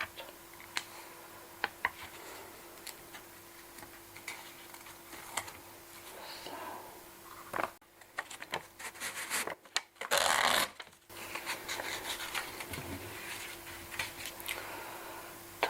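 Scattered light clicks and rubbing from objects being handled at a cash register. The clicks grow denser about eight seconds in, and a loud burst of rustling or scraping comes about ten seconds in and lasts a second.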